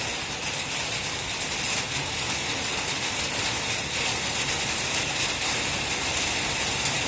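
Rain pouring steadily, a dense, even hiss with no breaks.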